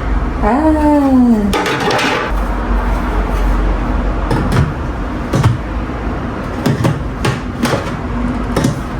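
Parts being fitted back into a refrigerator: a squeak that falls in pitch near the start, then a series of knocks and clicks.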